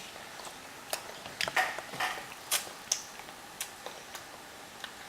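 Toddlers eating broccoli: scattered soft clicks and lip smacks from chewing, about a dozen spread unevenly over a few seconds, one or two with a faint squeak of voice.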